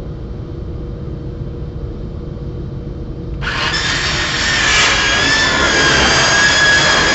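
Cordless circular saw cutting thin plywood: a low steady rumble, then about three and a half seconds in a loud rasping cut with a wavering high whine starts abruptly as the blade goes into the wood.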